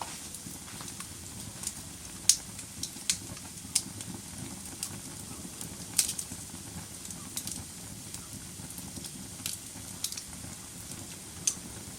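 Wood fire burning in a fireplace: a steady low rush of flames with irregular sharp crackles and pops, the loudest pops about two seconds in and halfway through.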